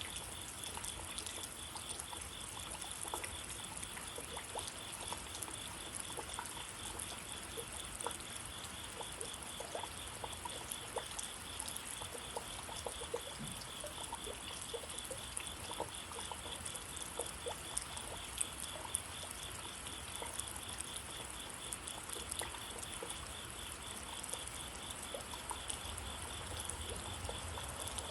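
Steady rain with many scattered drips ticking close by. A high, evenly pulsing call runs steadily behind it.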